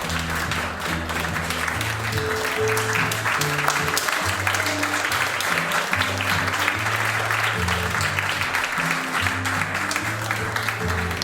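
An audience applauding steadily over music with low sustained bass notes that change every second or so.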